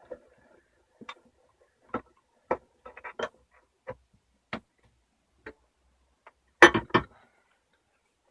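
Irregular sharp knocks and clinks of pieces of metal being picked through and handled, about a dozen separate hits with a louder clatter near the end.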